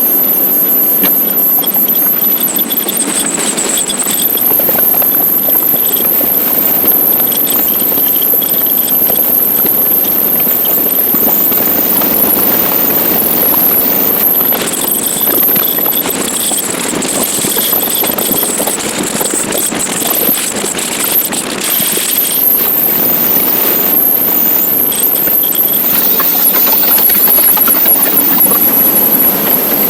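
Motorcycle riding noise on a rider-mounted camera: steady wind rush and road noise over the bike's engine, with a thin high whine on top.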